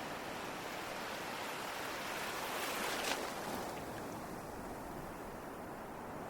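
Ocean waves: surf breaks about three seconds in, with a brief hiss of spray at its crest, then draws back to a softer wash.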